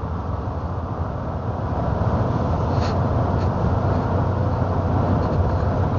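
Steady low rumble of a running truck, with an engine hum that rises slightly about two seconds in.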